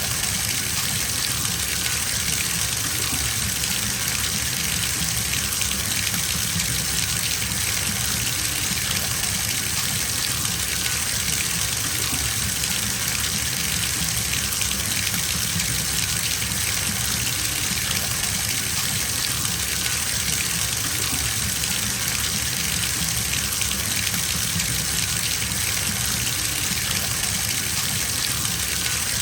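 Water gushing steadily from a bathtub tap into the tub as it fills.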